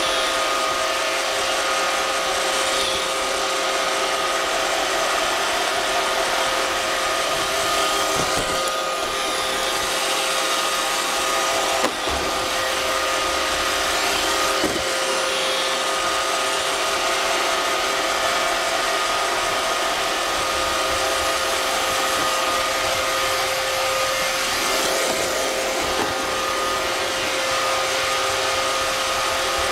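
iRobot Roomba 550 robot vacuum running, heard from a camera riding on top of it: a steady machine hum and whine with two constant tones over the suction and brush noise. A few short knocks break in about a third and half of the way through.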